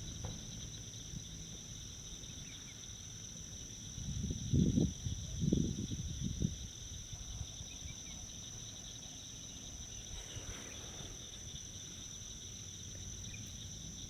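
Steady chorus of marsh insects, such as crickets, making a continuous high trill on two pitches. A few low bumps sound about four to six seconds in.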